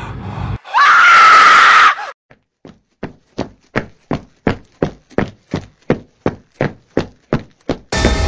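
A woman screams once for about a second, then hurried footsteps run on stairs, about three steps a second.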